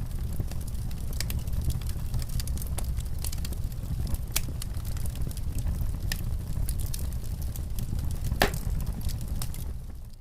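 Wood fire crackling in a fireplace: a steady low rumble of burning with many scattered sharp pops, one louder pop about eight seconds in. The sound dips away briefly at the very end.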